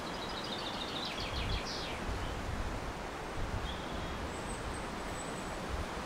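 A small bird sings a fast phrase of short, repeated high notes lasting under two seconds, with a few faint, thin high calls later, over a steady outdoor background hiss with low rumbles.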